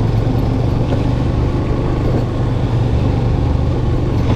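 Yamaha FZ V2's single-cylinder engine running steadily as the motorcycle rides along, with wind rushing over the helmet-mounted microphone.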